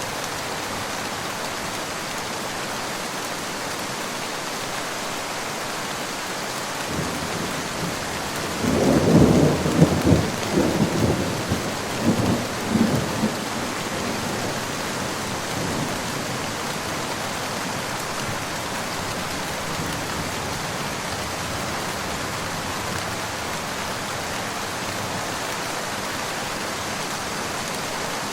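Steady rain falling, with a roll of thunder rumbling in about seven seconds in, loudest a couple of seconds later, and dying away by about halfway.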